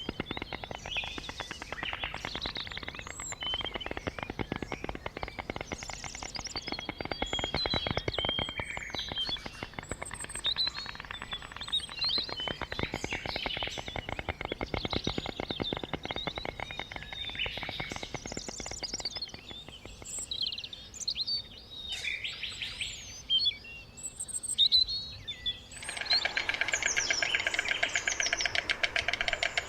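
White stork bill-clattering: a rapid run of clicks like a wooden rattle, with small birds chirping over it. The clattering thins out partway through and starts again louder near the end.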